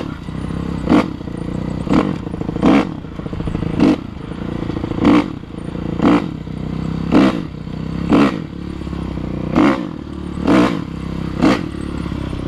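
Dirt bike engine running steadily, with short loud bursts about once a second.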